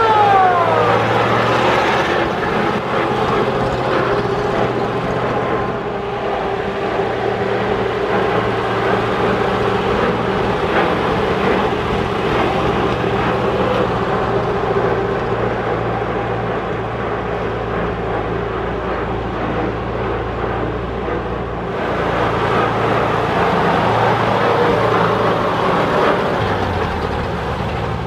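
1921 White Model 20 fire truck running on its 1948 Ford flathead V8, the engine note shifting a few times as it drives. A mechanical siren winds down in the first second.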